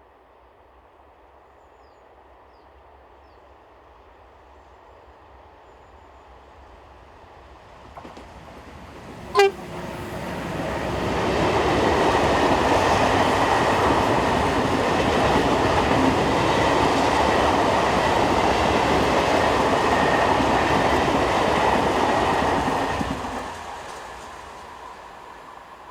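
Freight train of empty cement wagons, hauled by a pair of Renfe Class 253 electric locomotives, approaching, with a short sharp horn toot about nine seconds in. The train then passes close by with a loud, steady rumble of wheels and wagons for about twelve seconds before fading away.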